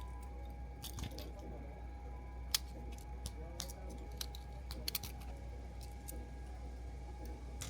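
Scattered light clicks and taps over a steady low hum and a faint steady tone, with the sharpest click about two and a half seconds in and a quick cluster a little after halfway.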